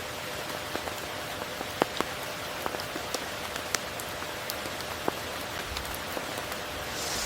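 Steady tropical rain falling, with individual drops striking close by as scattered sharp ticks, a few of them louder.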